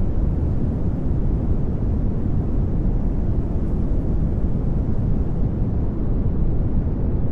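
Steady pink noise: an even rushing hiss, strongest in the bass and thinning toward the top, with no rhythm or change.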